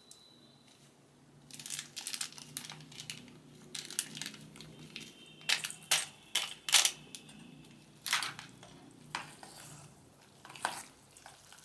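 Irregular crinkling, scraping and knocks: the Maggi masala sachet being torn open and the seasoning stirred into boiled noodles in a bowl.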